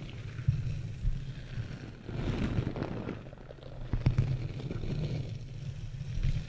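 Close-miked ASMR rubbing on the microphone: a muffled, low rumble that swells and eases, with a few soft taps.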